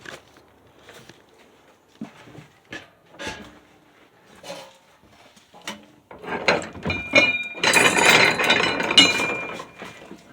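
Scattered knocks and clinks of metal being handled, then about four seconds of louder metallic rattling and scraping with a few ringing tones, stopping near the end.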